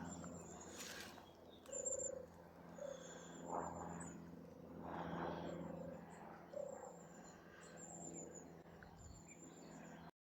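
Faint outdoor birdsong: short, high, thin trilled phrases repeated about once a second, with occasional short, lower calls from another animal.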